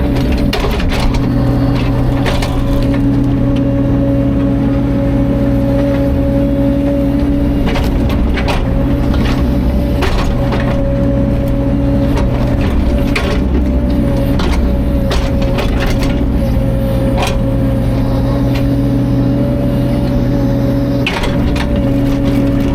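Caterpillar 305.5 mini excavator's diesel engine running at a steady speed, with many sharp cracks and knocks scattered over it.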